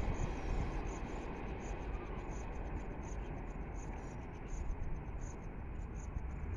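Train rolling past on the track, a steady rumble and rail noise, with faint high ticks about twice a second.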